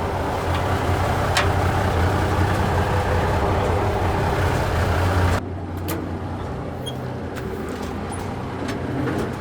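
Military truck diesel engine idling steadily with a low hum. About five and a half seconds in the sound drops suddenly and turns quieter, with a lower engine hum carrying on.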